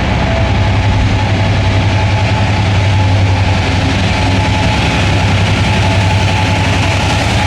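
Diesel-electric freight locomotive running with a steady low engine hum as its freight train rolls through, the wagons rumbling on the rails.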